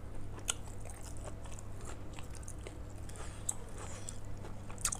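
A person chewing a mouthful of seared beef close to the microphone, with irregular sharp mouth clicks every second or so.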